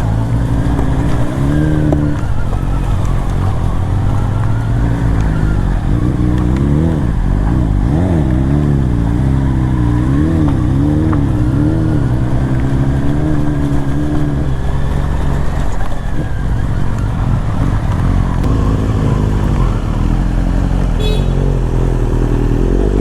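BMW S1000RR's inline-four engine with an Akrapovic Evolution exhaust running at moderate revs while riding. The pitch rises and falls repeatedly with throttle changes, and it drops steeply right at the end.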